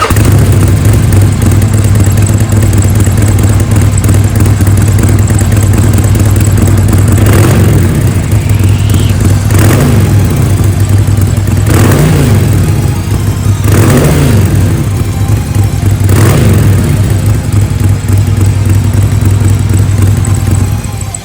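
Harley-Davidson Forty-Eight's air-cooled V-twin idling through its stock mufflers, with the throttle blipped about five times, roughly every two seconds, in the middle stretch. The factory exhaust is fairly quiet.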